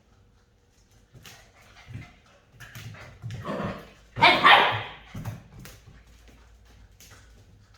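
Rottweiler puppies playing, with a loud yapping outburst about four seconds in among smaller scuffling sounds and short yips.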